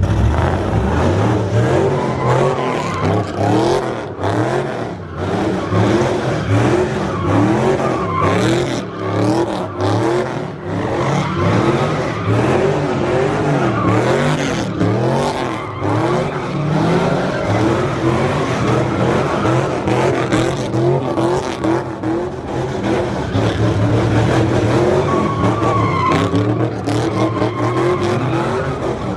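A car engine revving up and down over and over while its tyres squeal and skid, the sound of a car spinning its tyres through sideways slides or donuts.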